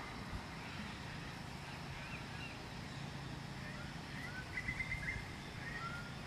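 Birds chirping and trilling in short calls, the busiest run about two-thirds of the way in, over a steady low hum.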